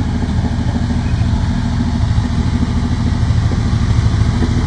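Squarebody Chevy C10 pickup's carbureted engine running steadily with an even low rumble, freshly revived on a new battery and gas poured into the carburetor.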